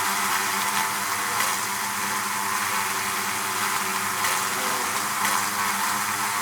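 Honeybees at a hive, many wings buzzing together in a steady, dense hum with a hiss above it.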